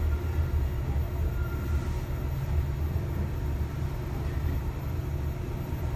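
Interior running noise of a JR East E233 series 2000-subseries commuter train under way: a steady low rumble from the wheels and running gear. A faint high whine, plausibly from its Mitsubishi IGBT traction inverter, comes in briefly about a second and a half in.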